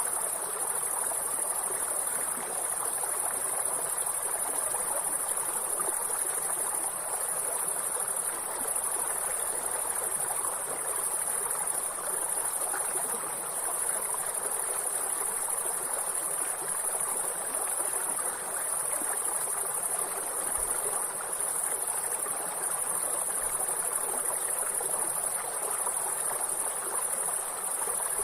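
A steady, high-pitched chorus of insects such as crickets over the continuous rush of a flowing stream.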